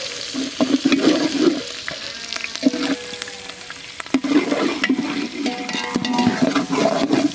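Chopped onions and green chillies sizzling and crackling in hot oil with mustard seeds and urad dal in a large pot, stirred with a wooden ladle.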